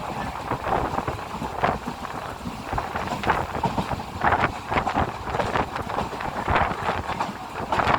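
Fast-moving train running, with wind buffeting the microphone and uneven knocks and rattles throughout.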